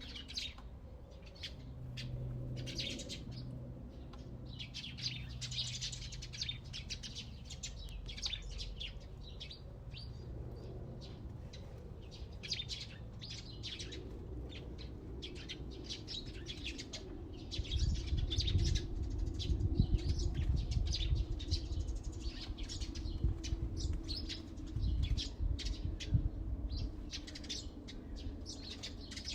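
Many small birds chirping in quick, overlapping calls. A low steady hum runs under them in the first half, and a louder low rumble comes in about two-thirds of the way through.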